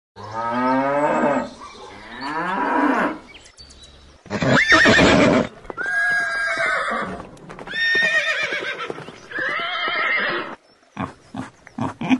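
A horse neighing repeatedly: about six separate whinnies, each lasting one to one and a half seconds, with a wavering pitch. Short, sharp calls of another animal begin near the end.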